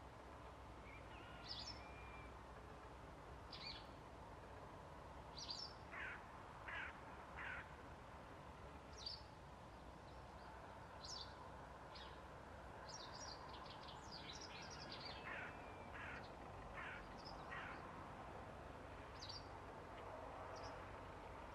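Birds calling faintly and sporadically over a soft steady hiss: short high chirps scattered throughout, and a few lower calls in quick runs of three or four, a quarter of the way in and again past the middle.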